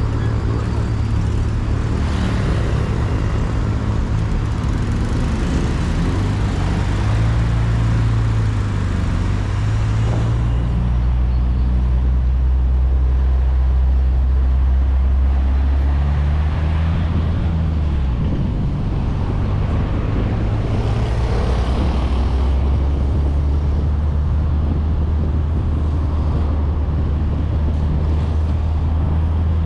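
A 1994 VW Gol's 1.6 L CHT four-cylinder engine running at highway speed, with tyre and wind noise on an outside microphone. The engine note shifts in pitch a few times and drops about two-thirds of the way through. Two swells of rushing noise come a couple of seconds in and again about two-thirds through.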